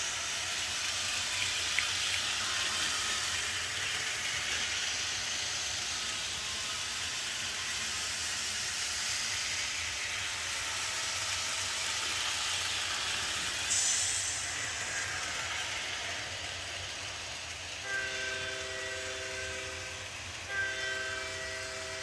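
EZ App locomotive running with a steady hiss. Near the end its multi-note chime whistle sounds twice, the second blast running on to the end.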